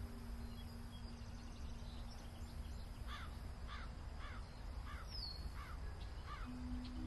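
A bird calling about six times in short, repeated calls, starting a few seconds in, over a steady low rumble. A held low tone drops out early and comes back near the end.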